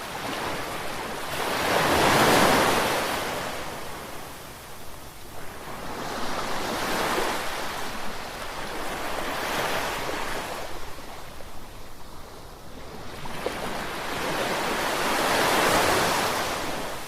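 Ocean waves breaking and washing up the shore in slow surges, each swelling to a rush of surf and fading; the biggest come about two seconds in and near the end.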